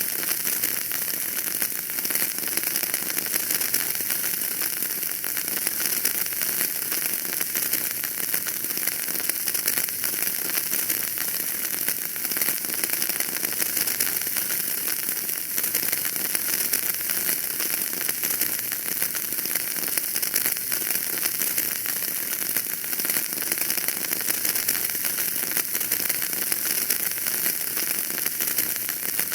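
Wood fire burning in a fireplace, crackling steadily with a dense patter of small pops and a high hiss.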